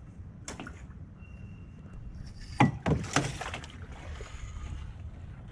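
Canoe paddling: a few sharp knocks and splashes of the paddle against the canoe and the water, loudest two and a half to three and a half seconds in, over a steady low rumble.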